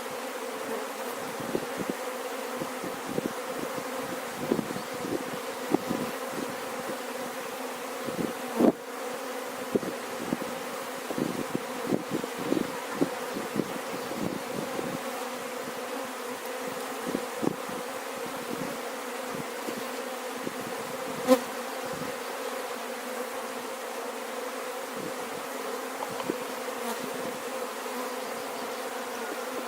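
Steady buzzing hum of a honeybee colony in an open hive, with many short irregular clicks and knocks over it, a louder knock about nine seconds in and another around twenty-one seconds.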